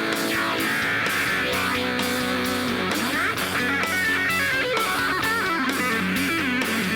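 Live rock band music: electric guitar playing fast melodic lines with pitch bends over bass and drums keeping a steady beat.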